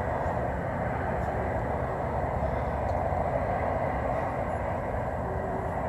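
A steady, unchanging rushing drone with a low rumble beneath it, the unexplained city-wide 'strange noise' that residents were recording.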